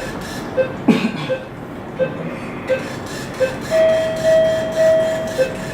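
Operating-theatre patient monitor beeping steadily in time with the pulse, about three beeps every two seconds. There is a sharp knock about a second in, and a longer steady tone of similar pitch sounds for almost two seconds in the second half.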